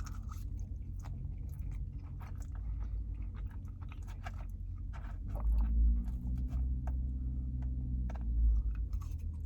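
Close-miked chewing of soggy loaded fries with chicken: many short wet mouth clicks and smacks. A low hum comes in about halfway through and holds for a few seconds.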